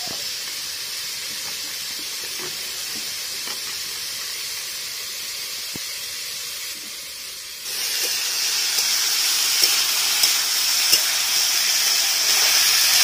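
Cauliflower florets sizzling as they fry in hot oil in a kadai: a steady hiss that grows louder about eight seconds in. A few light scrapes and taps of a metal spatula against the pan come near the end.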